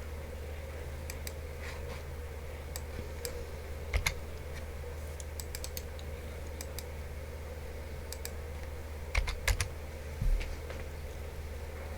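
Computer keyboard and mouse clicks, scattered irregular taps with a few louder knocks about four seconds in and again near the end, over a steady low hum.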